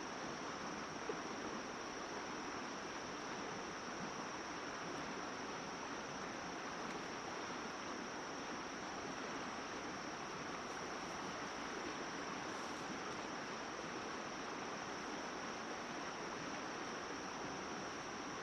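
Steady outdoor ambience: a constant high-pitched insect drone over an even hiss, with one faint click about a second in.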